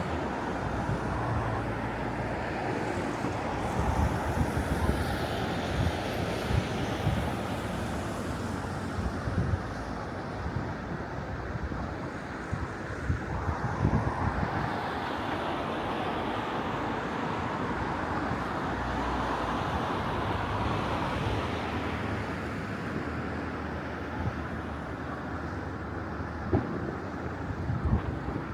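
Wind buffeting the microphone over a steady outdoor city rumble of traffic, with a few sharp distant firework bangs, one about halfway through and two near the end.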